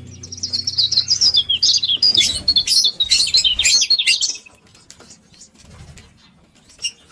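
Pet lovebirds chirping: a fast, busy run of high chirps and twitters for about four seconds, then quieter, with a couple of short chirps near the end.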